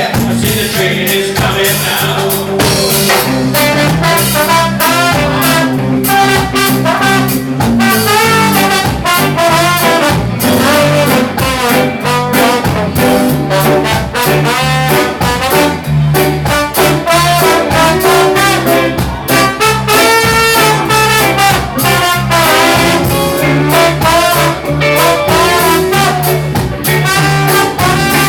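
Live roots-rock reggae band playing an instrumental break: a wavering lead melody over a steady bass line and drums.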